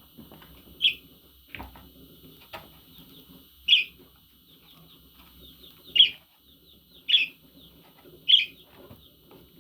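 Budgerigars chirping: five loud, sharp calls spaced about one to two seconds apart over constant soft twittering.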